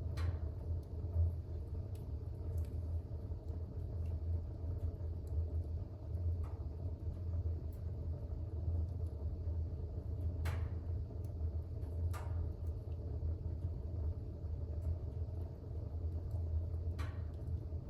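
Fire burning in a fireplace: a steady low rumble with a few sharp crackles, about four in all, the clearest around the middle.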